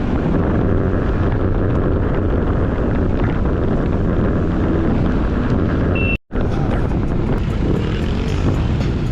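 Steady road and wind noise of a Honda PCX scooter on the move, with background music underneath. The sound cuts out completely for a split second about six seconds in.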